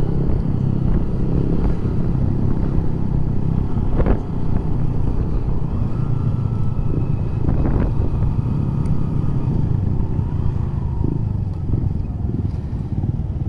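Suzuki Shogun SP 125's single-cylinder four-stroke engine running steadily at cruising speed while riding, heard from the bike. Two short, sharper noises come through about four and eight seconds in.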